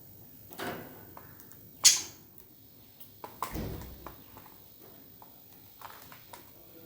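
Budgies making a few short scratchy chirps amid small clicks and taps, with one louder sharp sound about two seconds in.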